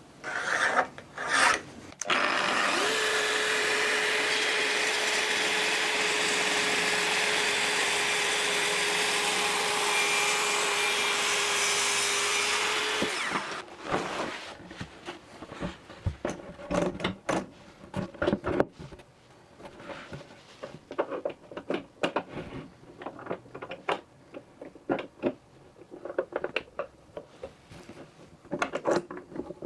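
Power saw cutting a wooden board to length: two short bursts, then a steady run of about eleven seconds that winds down. Scattered knocks and clatters of wood being handled follow.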